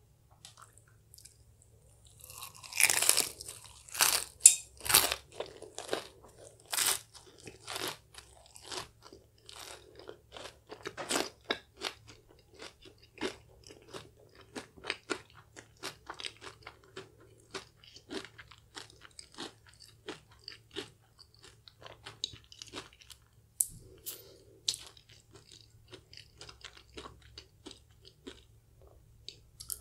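Crispy KFC Hot & Crispy fried chicken skin bitten and chewed close to the microphone: loud crunches start about two seconds in, then settle into many smaller, steady chewing crunches that fade near the end.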